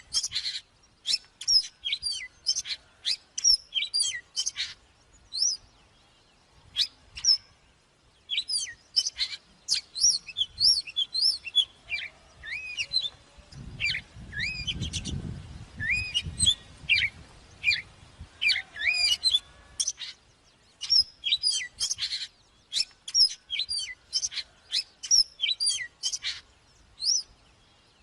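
Oriental magpie-robin singing: quick, varied whistled notes and phrases with short pauses between bursts. A low rumble runs beneath the song for a few seconds about midway.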